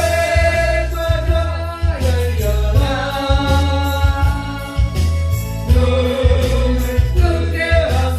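Korean gospel song with a singer's long held notes over an accompaniment track with a heavy bass and a steady beat.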